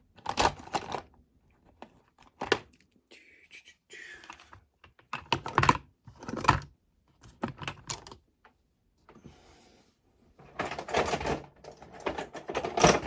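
A screwdriver prying and scraping at the plastic base of a diecast toy car, making irregular sharp clicks and short scrapes, with a longer rasping scrape near the end.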